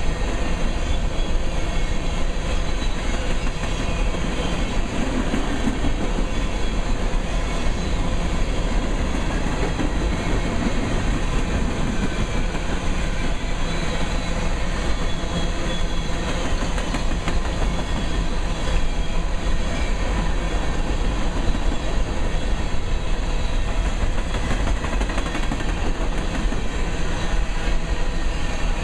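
Empty coal hopper cars of a freight train rolling past: a steady, loud rumble and clatter of steel wheels on the rails.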